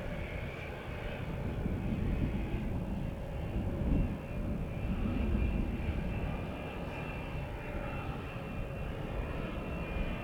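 Jet airliner engines running, a steady whine over a low, uneven rumble, with wind buffeting the microphone.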